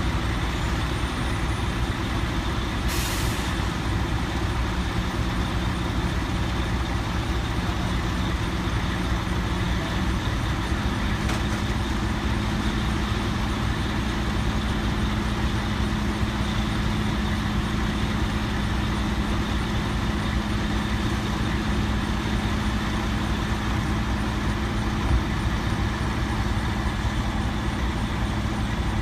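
Heavy truck's diesel engine idling steadily; its note steps up slightly about ten seconds in. A short air hiss comes about three seconds in.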